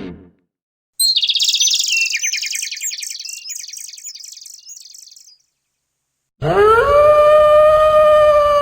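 A songbird singing a run of quick chirps and trills that fades over about four seconds. After a short pause comes a louder, long, drawn-out animal call that rises at its start, holds one pitch for about three seconds, then drops and cuts off.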